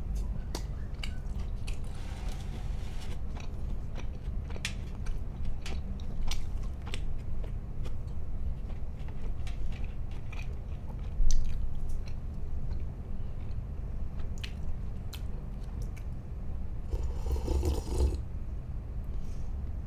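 Close-miked chewing and biting of food, with many small crisp mouth clicks and crunches, two longer noisy smacks or slurps, and one louder knock about eleven seconds in, over a steady low hum.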